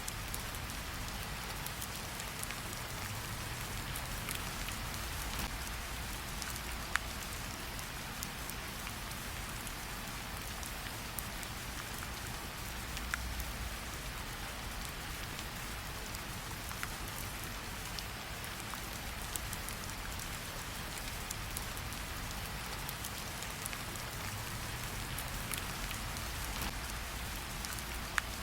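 Steady rain falling, with a low rumble underneath and a few sharp pops of a crackling campfire.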